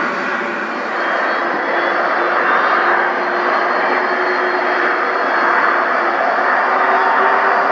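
Airbus A310 MRTT's turbofan jet engines running: a steady roar with a held whine over it, growing a little louder about a second in.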